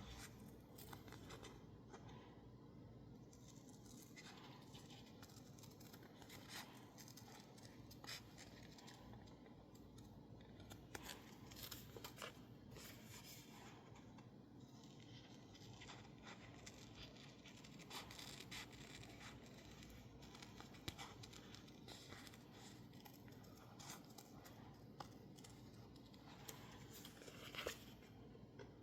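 Scissors cutting through sticker label paper in soft, irregular snips, the blades clicking now and then.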